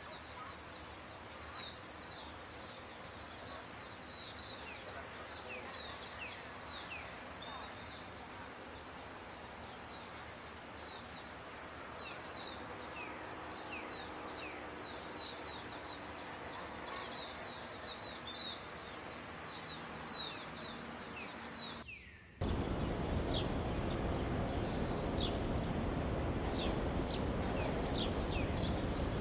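Forest songbirds chirping: many short, quick, falling notes over a steady high-pitched whine and a faint background hiss. About three-quarters of the way through, the sound cuts abruptly to a much louder, even rushing noise, with a few chirps still heard over it.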